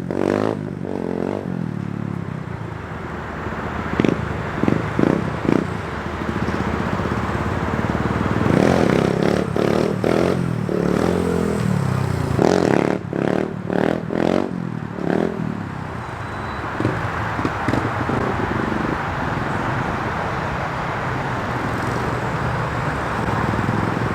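Small dirt bike engine revving up and easing off again and again as the bike is ridden through wheelie attempts, with short noisy bursts now and then.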